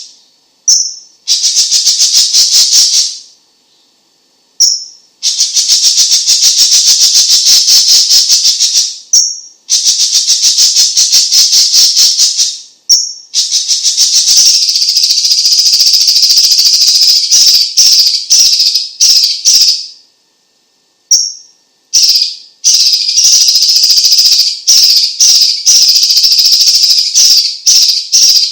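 Chinese leafbird (cucak cungkok) singing: long, fast, rattling trills of rapidly repeated high notes lasting a few seconds each, broken by short pauses, several opening with a brief whistled note.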